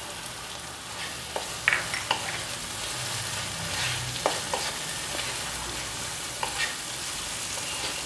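Onions, garlic, chillies, cashews and melon seeds sizzling in oil in a nonstick wok, with a wooden spatula scraping and clicking against the pan as they are stirred.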